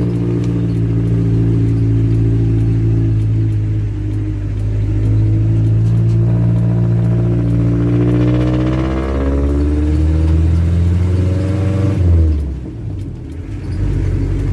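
Jeep's engine running under load, heard from on board: its pitch climbs around the middle, drops sharply with a brief lull near the end as if changing gear, then picks up again.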